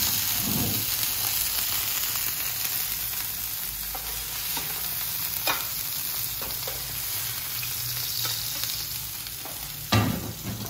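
Beef burger patties frying in fat in a wide pan, with a steady sizzle. A metal spatula clicks lightly against the pan now and then, and there is one sharper knock near the end.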